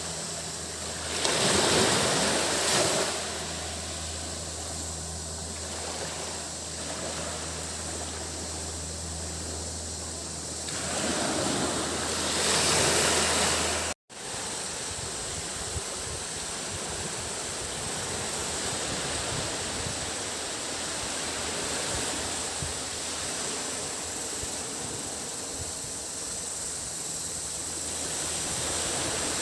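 Sea waves washing onto a beach, with two louder surges of surf about a second in and again near halfway, under a steady high-pitched cicada drone. A steady low hum runs through the first half, and the sound cuts out for an instant halfway through.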